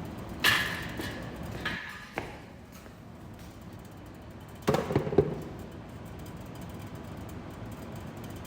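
A few sharp knocks with a brief ring near the start, then a quick run of three heavier knocks about five seconds in, over steady background noise.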